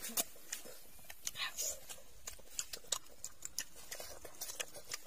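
Close-up eating sounds: irregular wet clicks and smacks of chewing and lips, and sucking as fish and sauce are eaten off the fingers, with bites of raw cucumber.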